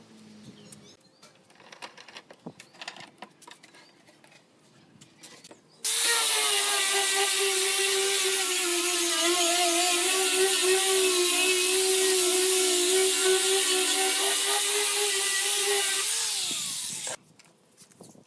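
Light clicks and knocks, then an electric power tool starts about six seconds in and runs with a steady whine and hiss for about ten seconds. It slows for a moment before cutting off sharply near the end.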